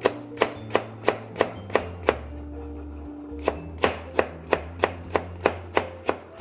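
Kitchen knife chopping radish against a cutting board: 16 sharp, even chops at about three a second, with a break of about a second and a half midway.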